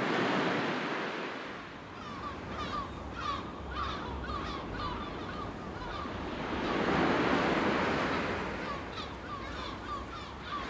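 Sea waves washing onto a shore, with one wave swelling in about halfway through. Between the swells a bird calls in quick runs of short repeated notes.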